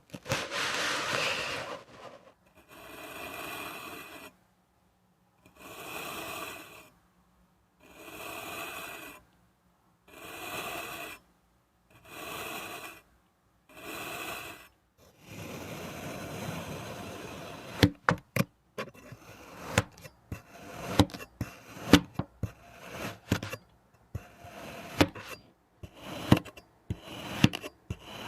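Kinetic sand being cut and scraped. A long scrape comes first, then a series of slow strokes about two seconds apart, each lasting about a second. From about two-thirds of the way through there is a run of sharp, crackling crunches.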